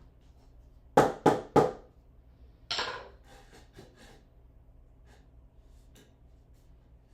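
Three sharp knocks in quick succession, about a third of a second apart, followed about a second and a half later by a softer rattling clatter and a few faint clicks.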